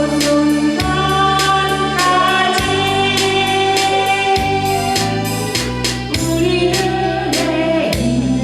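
A woman singing a Korean song over a band backing track, with a steady beat and a moving bass line.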